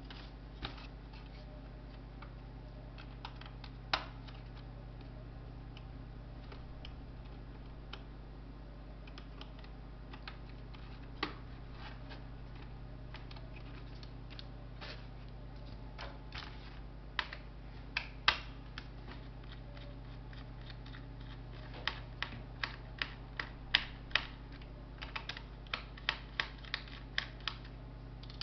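Light clicks and taps of small laptop parts, screws and tools being handled during disassembly. They are scattered at first and come in quick runs in the last several seconds, over a steady low hum.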